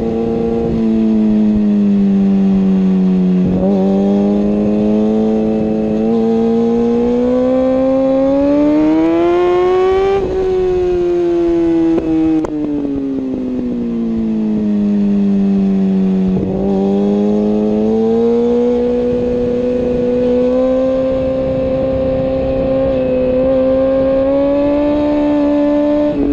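Superbike engine running at high revs, its pitch sinking a little, then climbing slowly for several seconds, falling back about halfway through, and rising again before holding fairly steady near the end.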